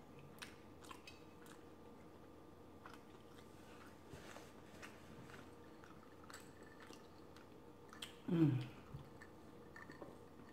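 Close-miked mouth sounds of eating fried lobster tail: soft chewing clicks and smacks. She then sips sparkling water through a straw, with one louder, low gulp about eight seconds in.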